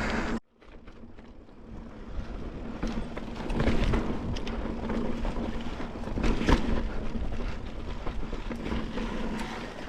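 Mountain bike riding over slickrock: a continuous rolling and rattling noise of tyres and bike on rock, with several sharper knocks. The sound drops out briefly about half a second in.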